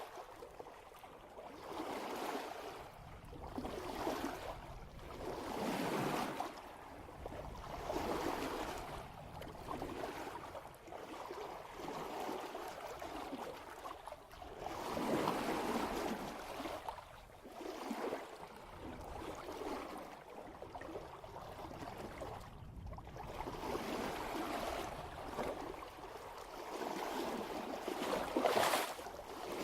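Water rushing and splashing along the bow of a sailboat moving at about 3 knots, swelling and easing in waves every couple of seconds, with a sharper splash near the end.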